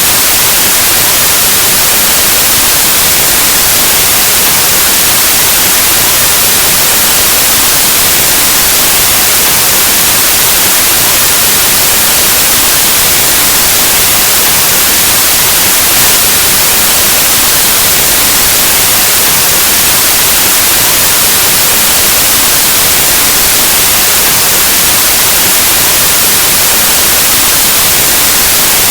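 Loud, steady white noise: an even hiss across the whole range, like the static of an untuned analog television or radio, with no change.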